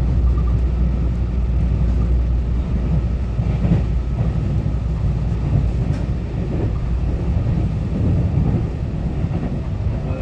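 Steady rumble of the EMU923 electric multiple unit running along the track, heard from inside the passenger car: wheels on rail and running gear.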